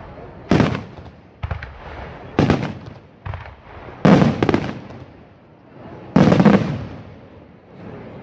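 Aerial fireworks shells bursting: a series of about six loud bangs, one every second or two with two close together near the middle, each trailing off as it echoes.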